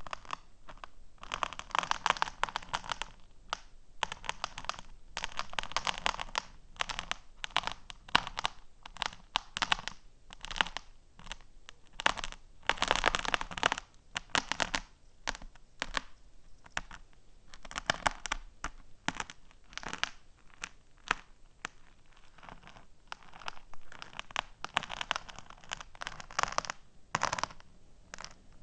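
Fingernails tapping and scratching on small hard objects close to the microphone: dense runs of tiny clicks in clusters, with short pauses between them.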